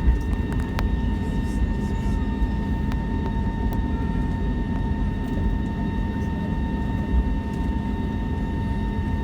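Airbus A320 cabin noise while taxiing: a steady low rumble with a thin, steady whine over it and a few light clicks.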